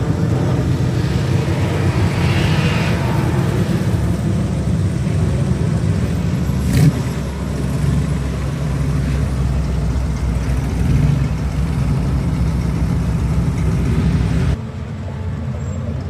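A car engine running with a loud, steady low rumble, with a sharp click about seven seconds in. Near the end the sound cuts abruptly to a quieter engine rumble.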